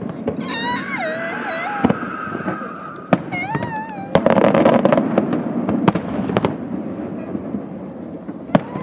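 Aerial firework shells bursting: a run of sharp bangs over dense crackling, thickest from about four to five seconds in, and one last bang near the end. A high, wavering pitched call sounds twice in the first few seconds.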